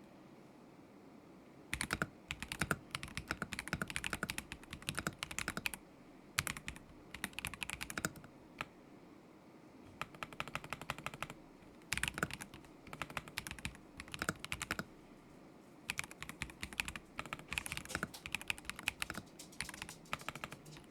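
Typing on a KZZI K75 Pro mechanical keyboard with Moment linear switches: fast runs of key clacks in bursts of a few seconds, broken by short pauses, starting about two seconds in.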